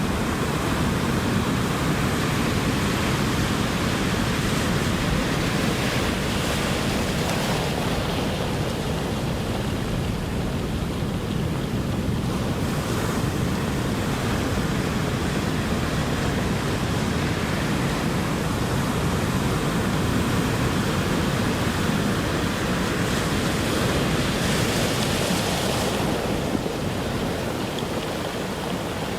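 Ocean surf washing on the shore as a continuous rush, swelling and easing as waves break, with brighter hissing surges about six seconds in, about twelve seconds in, and again near the end.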